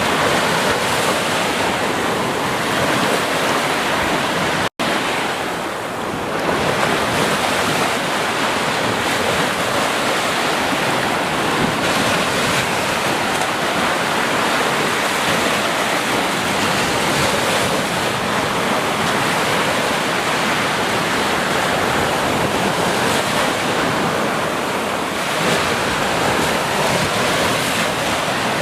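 Ocean surf washing on a beach, a steady dense rush of breaking waves with slow rises and falls. About five seconds in it cuts out for an instant.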